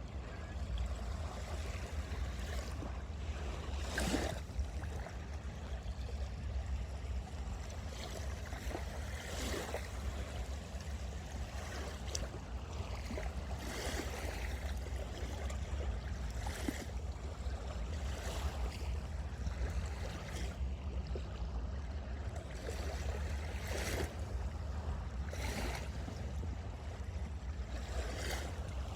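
Small lake waves washing onto the beach, a short splash every two to three seconds over a steady low rumble.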